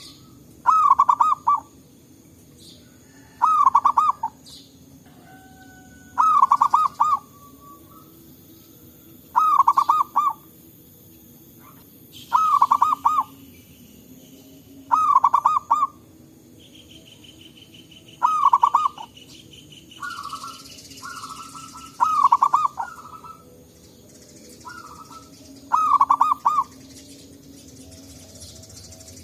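Zebra dove (local perkutut) cooing: a run of loud, rolling coo phrases, each under a second long, repeated about every three seconds. Fainter calls from other birds fall between them.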